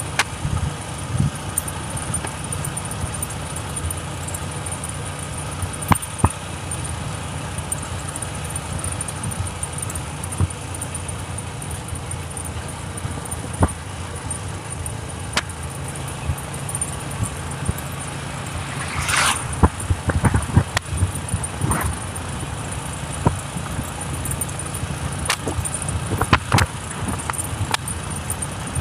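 Motorcycle engine running steadily while riding, with scattered knocks and rattles from the road and a short hiss about two-thirds of the way in.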